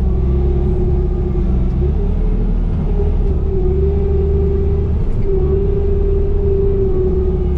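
Diesel engine of a Bobcat compact machine running steadily, a heavy low rumble with a steady whine on top that wavers slightly in pitch.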